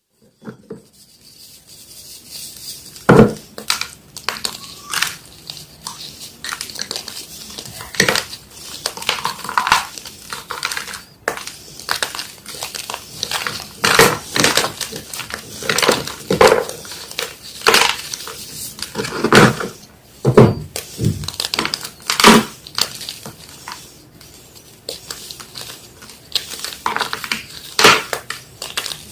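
Yellow gym chalk being crushed, with irregular sharp crunches and crumbling between them. The loudest crunches come about three, eight, fourteen, twenty and twenty-two seconds in.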